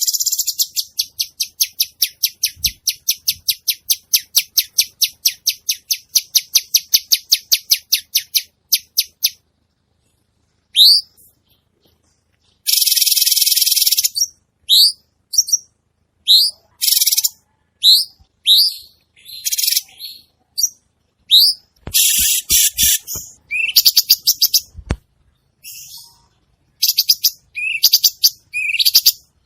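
Cucak cungkok songbird singing actively. It opens with a fast, even run of high chattering notes lasting about nine seconds, then after a short pause gives short rising whistled notes mixed with a few harsh, buzzy phrases.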